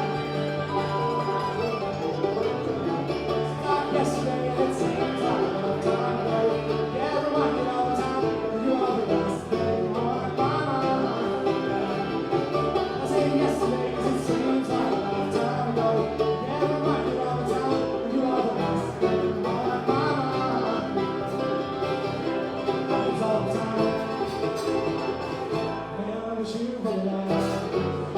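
Live acoustic bluegrass band playing a song.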